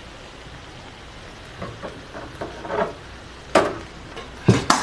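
Duck offal sizzling in a wok, with a spatula scraping the pan a few times and then knocking sharply against it, twice near the end.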